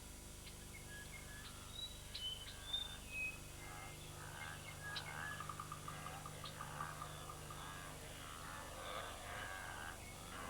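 Faint bird calls and chirps over a quiet outdoor ambience, with a quick run of repeated notes about halfway through.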